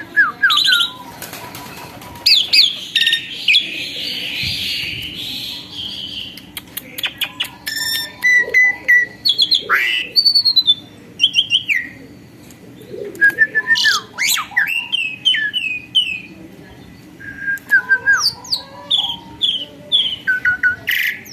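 Asian pied starling (jalak suren) in full song: a long, varied run of whistles, chirps, fast clicking trills and a harsh raspy stretch a few seconds in.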